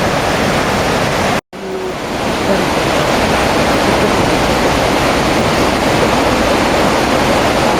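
Whitewater rapids rushing, a steady loud roar of water; the sound drops out for an instant about a second and a half in, then comes back and builds up again.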